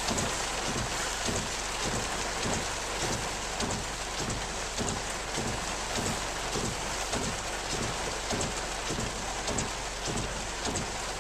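Heavy rain pelting a car, heard from inside, a dense steady hiss with a low, regular thumping about three times a second underneath.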